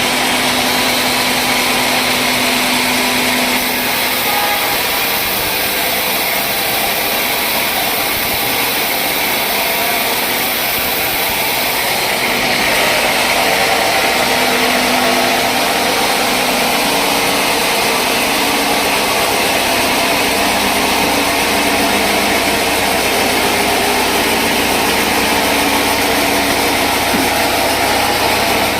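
Sawmill machinery running, a loud, continuous machine noise that holds steady throughout.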